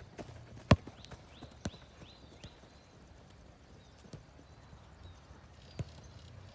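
A football being kicked and touched during passing practice: irregular sharp thuds of foot on ball, the loudest about a second in, with a few softer touches spread through the rest.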